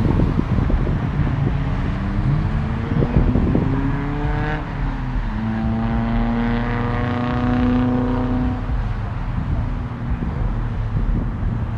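A car accelerating past, its engine note rising in pitch, dropping at a gear change about five seconds in, then climbing again before fading out near nine seconds. A low rumble and wind on the microphone run underneath.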